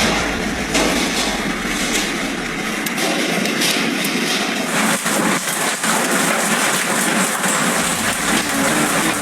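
Hailstones pelting a surface in a heavy hailstorm: a loud, continuous clatter of countless sharp impacts over a dense roar.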